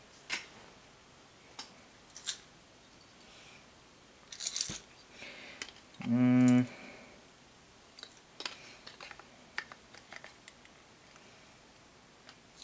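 Small plastic figure parts clicking and scraping as accessories are handled and fitted, in a series of sharp, irregular clicks and short rustles. About six seconds in, a short, steady hummed "mm" from a man's voice.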